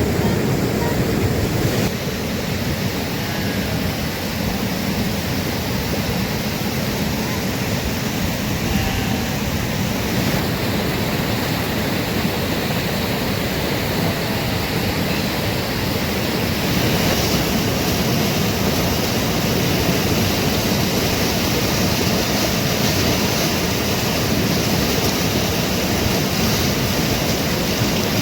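A strong-flowing mountain river rushing, a loud, steady roar of water without a break.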